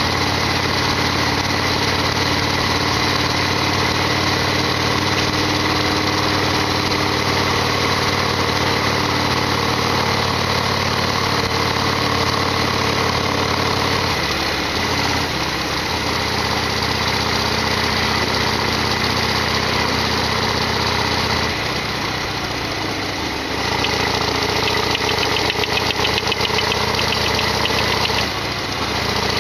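Harley-Davidson Sportster XL1200R's air-cooled V-twin running under way at a steady note, over a rush of wind. The engine note changes several times, easing off briefly about two-thirds of the way through and again near the end.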